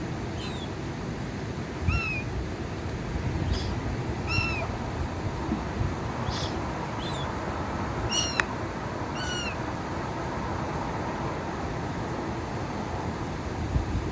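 Gulls calling: a series of short, falling cries, about nine of them over the first nine and a half seconds, over a steady low background rumble.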